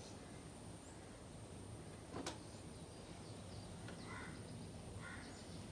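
Faint outdoor ambience with birds chirping now and then, short high calls repeated several times, and one sharp click about two seconds in.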